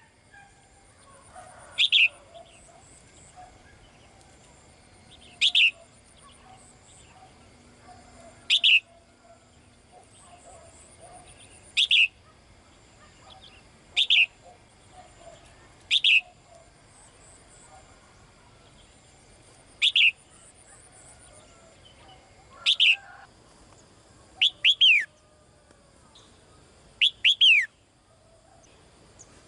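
A caged female songbird calling to a male: short, sharp, steeply falling calls repeated every two to four seconds, the last few given in quick pairs or threes.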